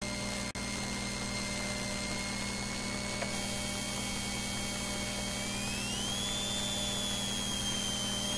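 Rally car engine running, heard from inside the cabin, with a steady hum and a high whine that rises in pitch about five to six seconds in as the revs come up.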